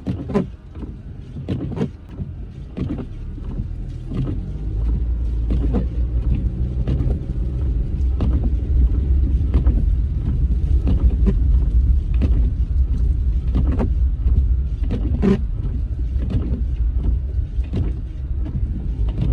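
Car driving in snow, heard from inside the cabin: a steady low rumble of tyres and engine that grows louder about four seconds in, with scattered short knocks and clicks.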